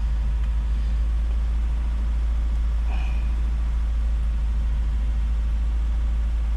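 Volvo 2.4 non-turbo inline five-cylinder petrol engine running steadily, heard from inside the cabin as a low, even rumble. It is misfiring intermittently on cylinders 1 and 2.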